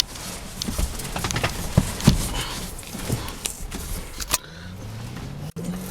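Window regulator of a 1992 Ford F350 being worked by its manual crank: a run of clicks and knocks, then a low whir from about four and a half seconds in.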